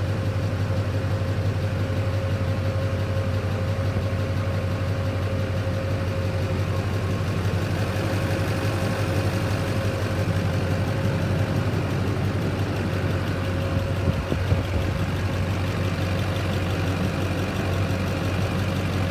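Duramax LB7 6.6-litre V8 turbo-diesel idling steadily, with a steady whine over the engine's low hum. The freshly swapped engine is running smoothly with good oil pressure.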